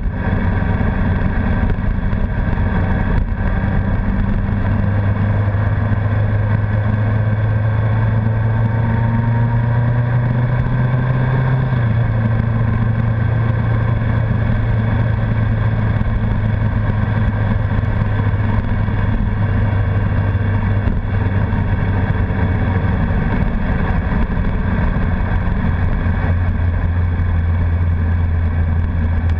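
Honda CBR1100XX Blackbird's inline-four engine running steadily under way, its pitch rising gently for several seconds and then dropping slightly about twelve seconds in.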